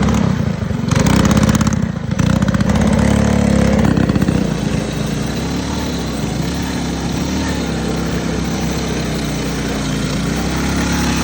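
Small single-cylinder mini bike engine revving in short bursts for the first few seconds, then running steadily at a lower, wavering speed.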